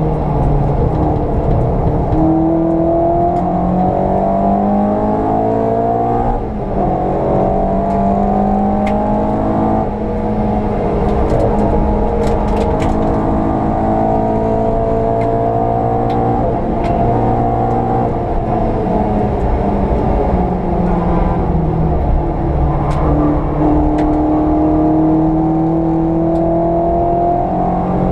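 VW Polo 86C's engine driven hard, its pitch climbing under acceleration and falling back through braking and gear changes, with brief drops about six and a half and ten seconds in.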